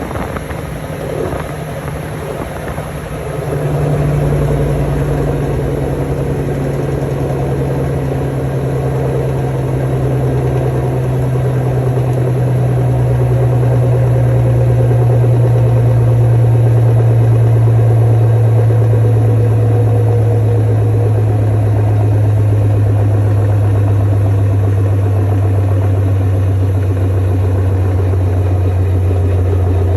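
Washing machine in its spin cycle, running with a loud steady hum. The hum comes in strongly about three and a half seconds in and slowly drops in pitch.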